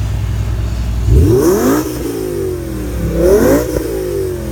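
A performance car's engine revving hard twice, its pitch climbing steeply each time and then dropping back, over the low steady drone of idling engines.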